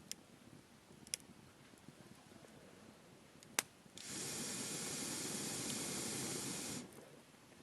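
Wood campfire ticking with a few sharp crackles and pops, then a loud steady rushing hiss starting about four seconds in and cutting off abruptly nearly three seconds later.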